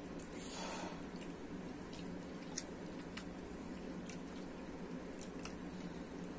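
People chewing and biting food at the table, meat from bones and corn on the cob: soft wet mouth sounds with scattered small clicks and a brief hiss about half a second in, over a steady low room hum.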